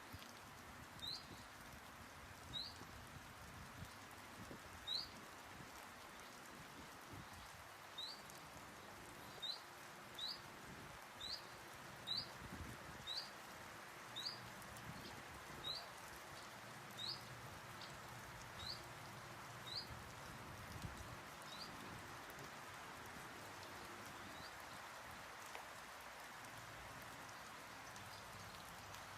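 A bird repeating a single short, high, upward-sweeping call note about once a second, over a steady faint hiss of outdoor ambience; the calls grow fainter and stop about three-quarters of the way through.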